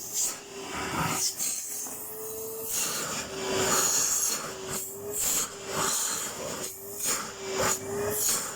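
Vacuum cleaner running, a steady motor tone under a rushing hiss of air that swells and dips every second or so.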